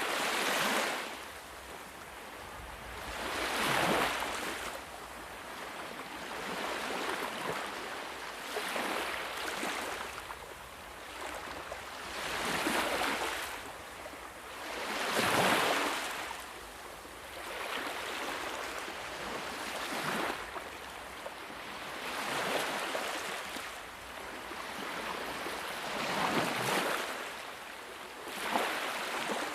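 Ocean waves breaking on a shore, each wash swelling and fading every few seconds, the biggest about halfway through.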